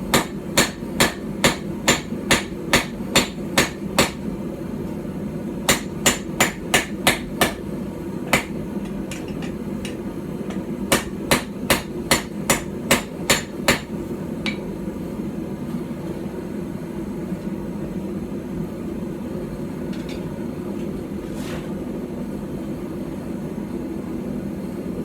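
A light hand-forged hammer striking hot steel on a small stump anvil in quick runs of about two to three blows a second, in three bursts with pauses between, the hammering stopping about 14 seconds in. A steady low hum runs underneath.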